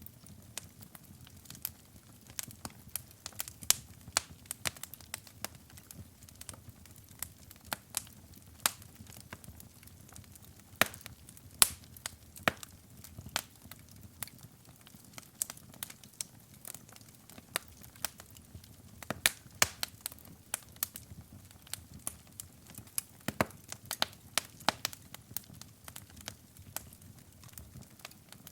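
Wood fire in a fireplace crackling, with irregular sharp pops and snaps, several a second, over a soft low rumble of burning.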